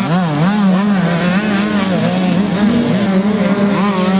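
125cc two-stroke motocross bike engines racing. The nearest engine's pitch swoops up and down quickly as the throttle is worked, then holds steadier at high revs, with other bikes' engines running underneath.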